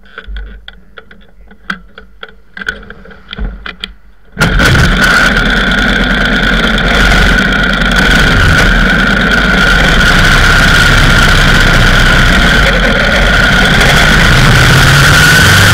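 Indian 101 Scout motorcycle engine running as the outfit rides along, with wind on the microphone. It comes in suddenly about four seconds in, after a few low clicks and knocks, and is then loud and steady with a constant high whine.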